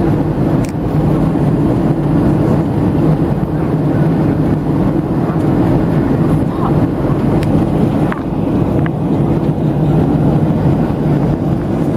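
Steady cabin noise inside a Boeing 737-700: a constant low rumble of engine and airflow noise through the fuselage.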